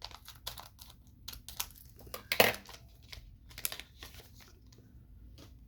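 Trading-card booster pack wrapper crinkling and being torn open: a run of short crackling rustles, loudest about two and a half seconds in.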